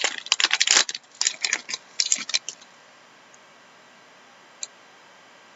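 Trading card packs and cards being handled: a quick run of crinkling, rustling and clicking that stops about two and a half seconds in, followed by two faint ticks.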